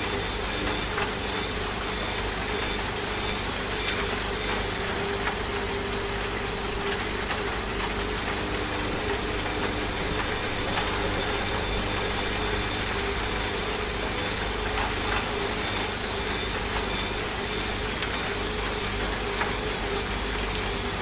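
Washing machine running with a steady motor hum and low rumble, layered with the even hiss of falling rain and a few faint ticks.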